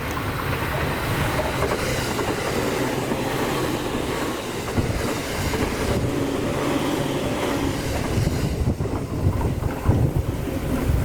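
A train running by on the rails: a steady low rumble with a few sharp knocks from the wheels in the second half.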